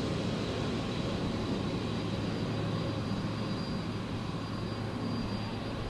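Jet airliner engines running as a steady rushing noise with a faint high whine, slowly fading.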